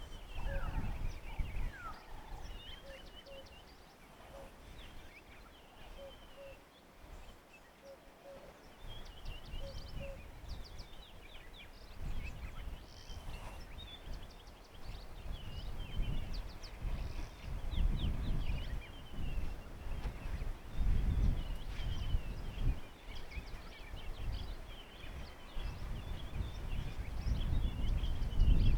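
Wild birds calling: quick high chirps and trills throughout, and a short low note repeated over and over through the first ten seconds or so. Low rumbling buffets of wind on the microphone come and go, stronger in the second half.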